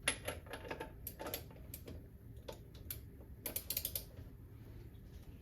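Light metallic clicks and ticks at uneven intervals, with a quick cluster about three and a half seconds in, from a BSA A65 twin engine being turned over with its rockers and push rods moving.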